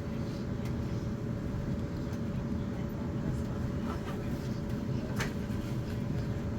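Class 450 Desiro electric multiple unit running along the line: a steady rumble of wheels on rail with a constant hum and a few faint clicks.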